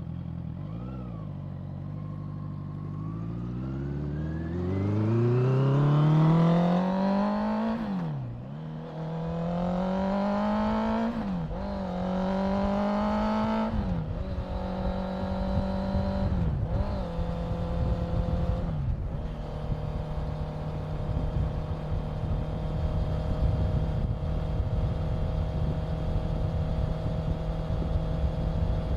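Honda CBR650F's inline-four engine pulling away and accelerating hard through the gears. The engine note rises and drops sharply at three upshifts, with two shorter dips after them. Then it settles to a steady note as the bike cruises at constant speed.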